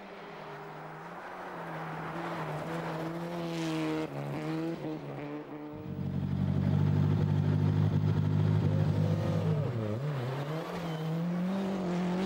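Rally car engine at high revs. It climbs as the car approaches, then is heard louder and lower from inside the car, where the revs drop briefly about ten seconds in and pick up again, as in a lift or gear change.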